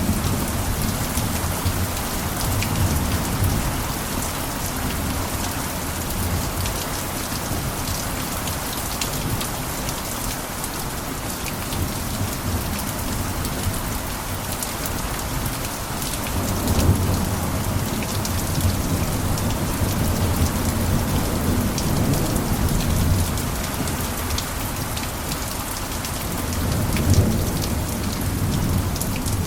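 Steady heavy rain pattering on a roof, a dense even hiss full of small drop ticks. A low rumble swells underneath about halfway through and again near the end.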